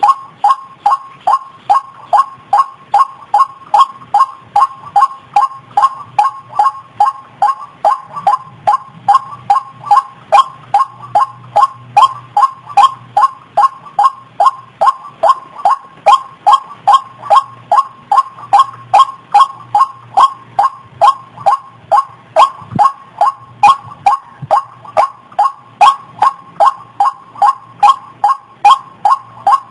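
White-breasted waterhen's call as played for a bird-trapping lure: one short, sharp note repeated steadily about twice a second, without a break.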